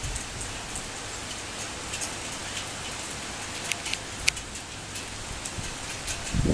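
Pouring rain falling steadily: an even hiss with scattered sharp ticks of drops striking a nearby surface, most of them about four seconds in.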